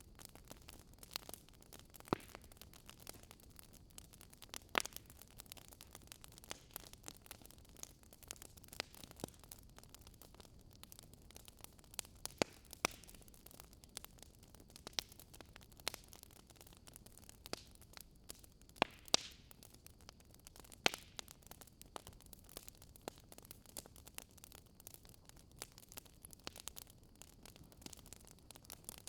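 Wood fire crackling in a fireplace: a steady faint hiss with irregular sharp pops and snaps, a few louder cracks standing out, about 2, 5, 12 to 13, 19 and 21 seconds in.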